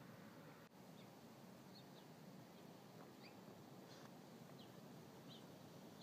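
Near silence: a faint steady hiss with a few faint, short, high bird chirps scattered through it.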